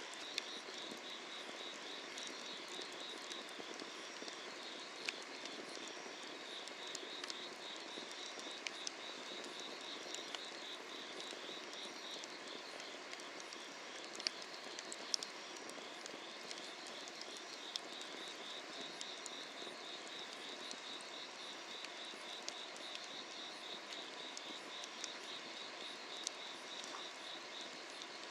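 Firewood burning under an iron cauldron, crackling with sharp pops every second or two over a steady hiss, while insects keep up a rapid, pulsing high chirp throughout.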